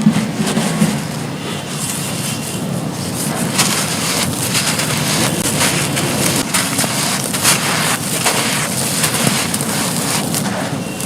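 Soft, dry, crumbly material being crushed and crumbled: a dense, continuous run of gritty crunches and crackles, with a few louder crunches.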